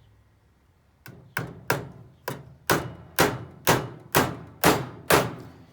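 Hammer driving a nail into wood: about ten sharp strikes at roughly two a second, starting about a second in.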